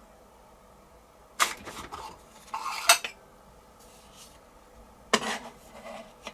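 Small metal tools clinking and rattling against metal in a few short bouts: about a second and a half in, around three seconds, and again about five seconds in.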